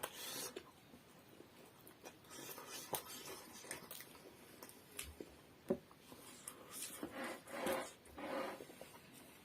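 Faint eating sounds of someone chewing momos: soft mouth noises and small scattered clicks, with a few slightly louder chewing spells near the end.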